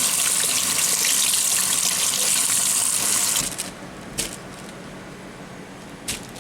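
Water from a tap running into a sink, shut off suddenly about three and a half seconds in, followed by two light clicks.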